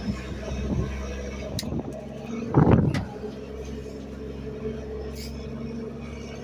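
Garbage truck engine running steadily, with a few faint clicks and one short loud noise about two and a half seconds in.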